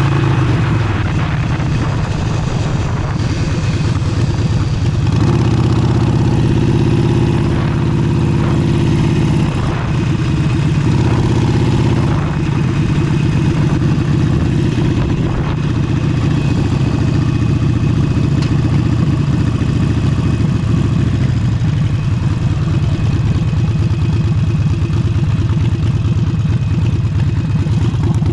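Harley-Davidson Forty-Eight's air-cooled 1200 cc V-twin running through an aftermarket exhaust while riding, revs rising about five seconds in, easing off around ten seconds, then holding steady. Wind buffets the action-camera microphone, whose windscreen foam was not properly fitted.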